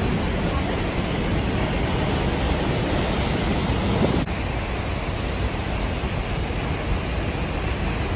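Steady roar of a waterfall close by, a dense even rush of falling water and spray. The level drops slightly a little over four seconds in.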